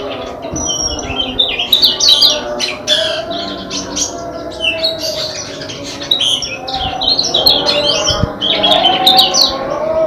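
Small caged songbirds chirping and chattering in quick, overlapping bursts of high calls.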